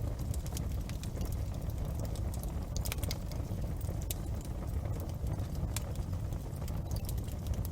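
Large bonfire burning, with irregular sharp crackles and pops over a steady low rumble.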